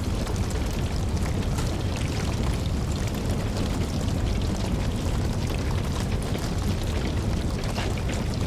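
Steady rain together with a wood fire crackling, over a deep, even rumble, with many small pops and crackles scattered throughout.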